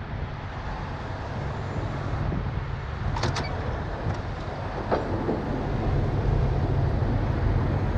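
Heavy tow truck's diesel engine running steadily, growing a little louder about six seconds in. Two sharp clicks come a little after three seconds, and a faint knock near five.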